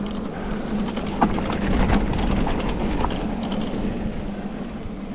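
Electric mountain bike being ridden on a wet, muddy trail: wind on the microphone and tyre noise, under a steady low hum from the Bafang M620 mid-drive motor, with a few sharp knocks from the bike about one, two and three seconds in.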